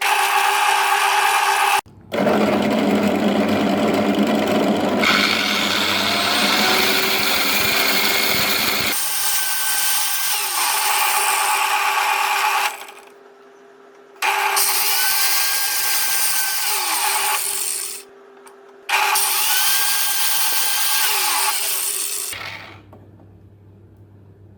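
A power tool such as a drill running in four bursts of a few seconds each, each starting and stopping abruptly, with short pauses between.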